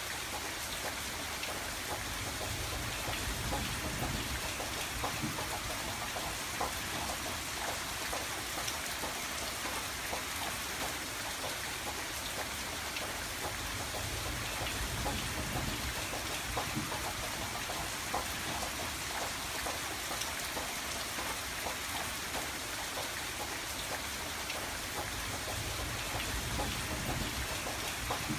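Steady rain falling on a window, a dense patter of small drop ticks over a constant hiss, with a low rumble that swells and fades every several seconds.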